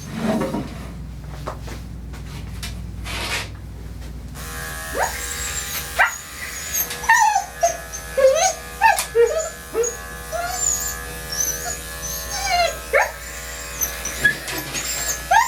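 Portuguese Water Dog whining and yelping in many short cries that slide up and down in pitch, over the steady hum of electric dog grooming clippers, which start about four seconds in. The dog is protesting being clipped.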